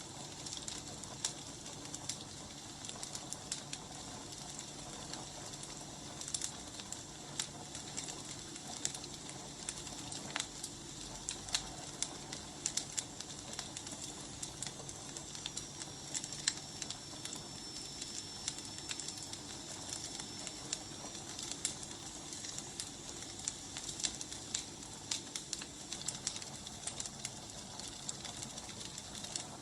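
Wood fire crackling, with irregular sharp pops and snaps over a steady soft hiss. A faint high whistle rises, holds and fades about halfway through.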